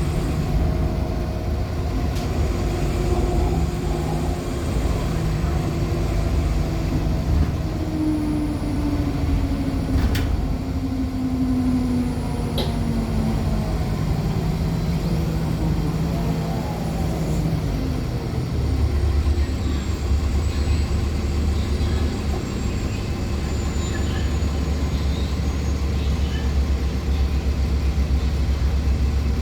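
Cabin sound of a 2014 NOVA Bus LFS articulated hybrid bus with a Cummins ISL9 diesel and Allison hybrid drive: a steady drivetrain hum, with a whine that falls in pitch as the bus slows in the first half. About two-thirds in, it settles into a steady low engine rumble.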